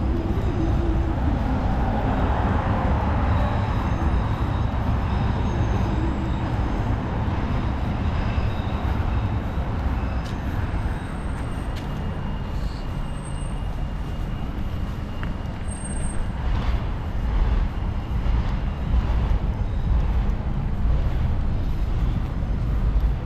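City street traffic noise: a steady mix of passing vehicles with a heavy low rumble. A few brief high squeals come in the middle of the stretch.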